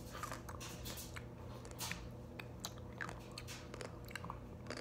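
Close-up eating sounds of a person chewing ramen noodles and rice cakes: soft irregular chewing with small wet mouth clicks and smacks.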